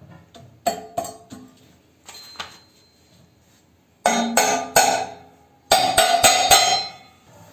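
Stainless steel chimney flue parts knocking and clinking together as the condensate drain fitting is pushed into place. There are a few single knocks early on, a quiet pause, then two dense runs of ringing metallic clanks from about four seconds in.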